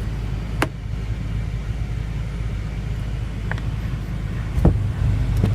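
Steady low rumble of the BMW M5 F10's twin-turbo V8 idling, heard from inside the cabin, with a few light clicks of interior trim being handled.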